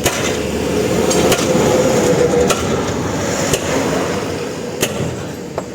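About half a dozen sharp knocks at uneven gaps of about a second, over a steady mechanical rumble.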